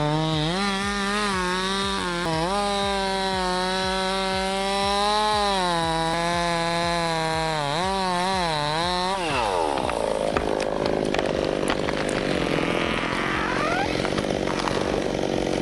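Ported Husqvarna 385 two-stroke chainsaw running at high revs, its pitch dipping and recovering again and again as it works. About nine seconds in the pitch falls away sharply and a rougher, noisier stretch follows.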